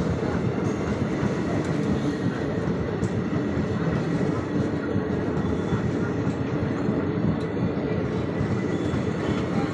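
A train running, a steady noise with most of its weight in the low range and no pauses or distinct clicks.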